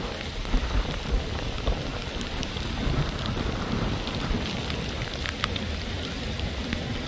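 Heavy tropical-storm rain pouring onto a flooded street: a steady hiss of drops splashing into standing water. Underneath runs an uneven low rumble, with a few sharp drop ticks on top.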